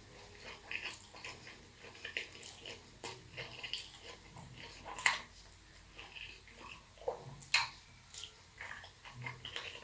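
Close-miked wet chewing and lip-smacking on a mouthful of burrito: irregular soft smacks and clicks, with a couple of louder ones about five and seven and a half seconds in.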